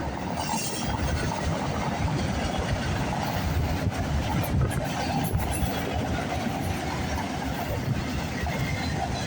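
A train rolling past, a steady rumble of wheels on rails with a few clicks of the wheels over the track.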